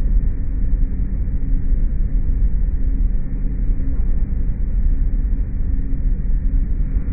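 Steady low machine drone from what sounds like a compressor-type device, with a faint steady hum over a deep rumble. The recording is played back slowed down, so it sounds deeper than in life.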